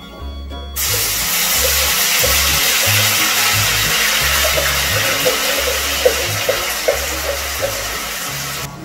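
Wet onion paste hitting hot mustard oil in a kadai: a loud, steady sizzle as the water in the paste flashes off, starting suddenly about a second in and cutting off just before the end, with scattered crackles. Background music plays underneath.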